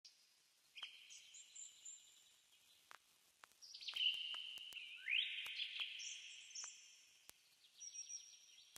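Faint, high-pitched birdsong: a string of chirps and twitters, one of them sweeping upward about five seconds in, with scattered soft clicks.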